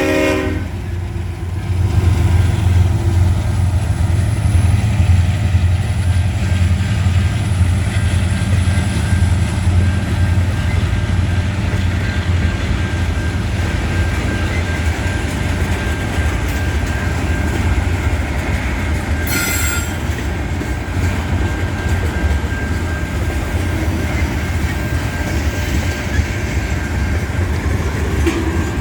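Freight train passing at low speed: a steady low rumble of diesel locomotives and rolling wheels, with a faint, thin wheel squeal running under it. The horn cuts off just as it begins. A brief sharp screech comes from the wheels about 19 seconds in.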